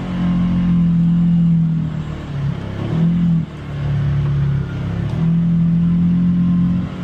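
Polaris Xpedition UTV engine pulling under throttle in repeated surges, easing off briefly about two seconds in, again around three and a half seconds, and near five seconds before coming back on.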